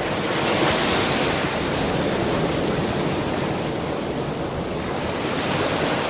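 Ocean surf washing steadily onto a beach, swelling a little about a second in and easing slightly towards the end.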